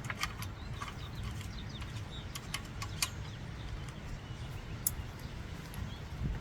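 Light, scattered metallic clicks of hand tools and parts being handled while the carburetor is taken off a Toro lawnmower, over a low steady rumble, with a few faint bird chirps.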